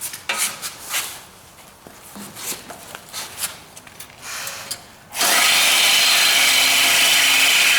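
Several scattered clinks and knocks, then about five seconds in a reciprocating saw (Sawzall) starts up and runs steadily, cutting through metal on the car's chassis.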